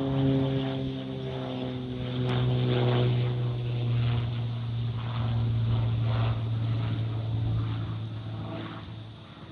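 Propeller aircraft flying past, its engine drone sliding slightly down in pitch and fading away near the end.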